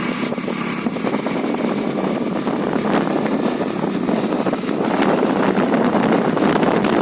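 Honda Dio scooter running along the road, its engine noise mixed with rushing wind, growing somewhat louder about five seconds in.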